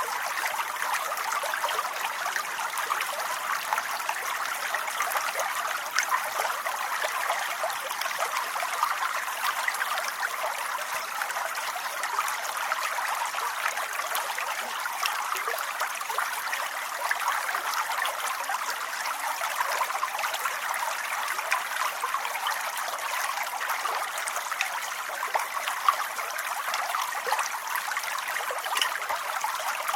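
Steady rain falling, a dense patter of countless small drops with no let-up.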